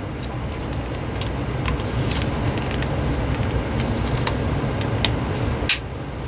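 Scattered light clicks and taps of a plastic cordless phone handset being handled while its battery and back cover are refitted, with one sharper click near the end. A steady low hum runs underneath.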